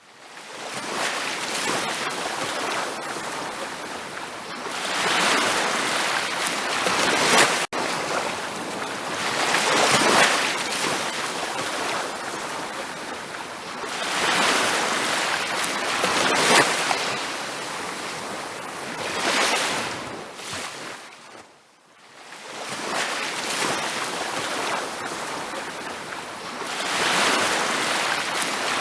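Ocean waves breaking and washing up a beach, swelling and ebbing in surges every few seconds. The sound drops almost to nothing for a moment about 22 seconds in, then builds again.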